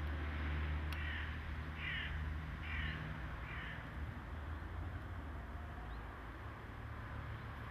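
A bird calls four times, short harsh calls about a second apart, over a steady low rumble.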